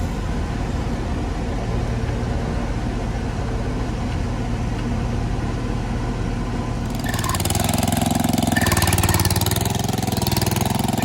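Case IH 1680 combine's engine running steadily at idle. About seven seconds in, the sound grows louder and hissier, with a wavering pitch.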